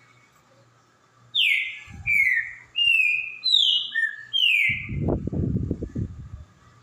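Green-winged saltator (trinca-ferro) singing a phrase of about six loud whistled notes, each sliding down in pitch. The phrase is followed by a low rumbling noise lasting about two seconds.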